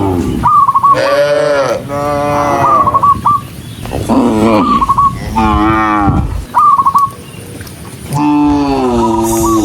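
Cattle mooing in turn, several long calls that fall in pitch, one after another, with short high chirps between them.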